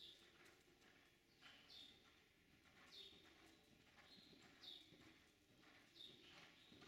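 Faint, repeated chirps from a small bird, about six short high calls that each slide down in pitch, spaced a second or so apart.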